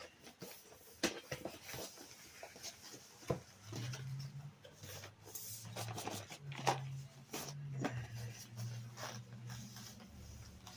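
Cardboard and plastic packaging of an RC race-boat box being opened and handled: scattered clicks, knocks and rubbing. A low hum comes and goes from about four seconds in.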